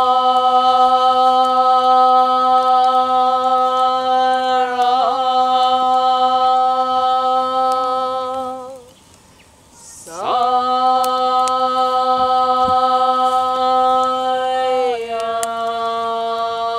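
A single voice intoning two long held notes, each about eight seconds, in a ritual chant. Each note swoops up into pitch at the start and drops slightly partway through, with a short breath between them.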